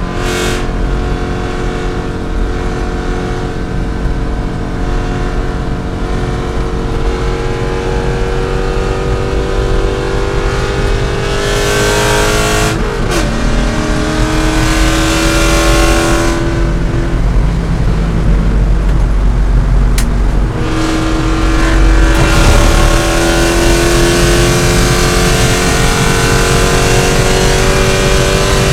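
C5 Corvette V8 race engine under hard acceleration, its pitch slowly climbing. There is a sharp break about halfway through, then a short quieter off-throttle stretch before it pulls and climbs again.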